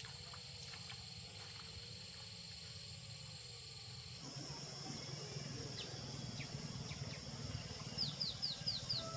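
Insects trilling steadily in the countryside, changing abruptly about four seconds in to a different, higher-pitched trill. Near the end a bird gives five quick, falling chirps.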